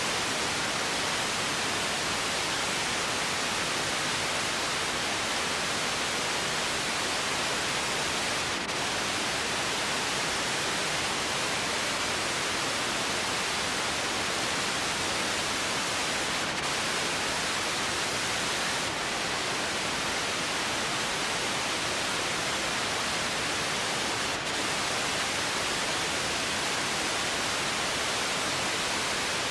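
Steady, even hiss with no other sound, dipping very briefly four times.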